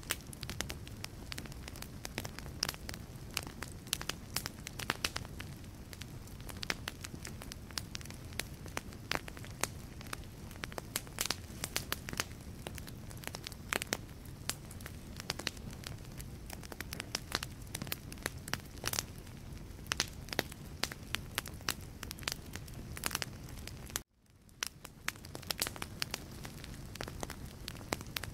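Wood fire burning in a fireplace, the logs crackling and popping in quick, irregular snaps over a steady low rush of flame. Near the end the sound cuts out abruptly and fades back in over about a second.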